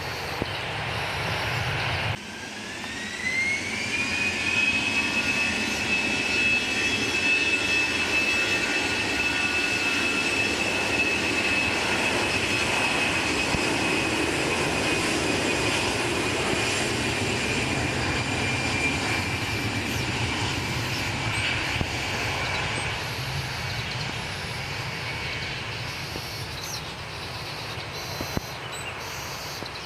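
Airbus A320-200 jet engines spooling up to takeoff thrust: a whine rising in pitch for about two seconds, then holding steady over the engines' broad rush. The sound fades slowly as the takeoff goes on.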